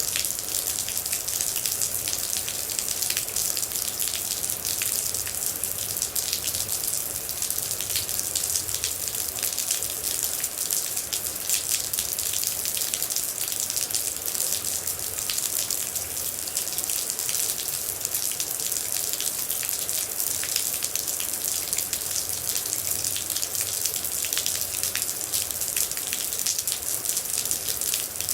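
Steady rain with dense, fast water droplets pattering and splashing, a constant hiss full of tiny ticks.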